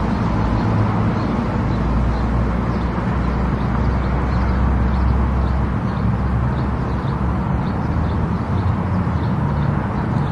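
Car travelling at highway speed: steady tyre and road noise over a low engine drone that eases about six seconds in. A faint, fast ticking repeats about three times a second.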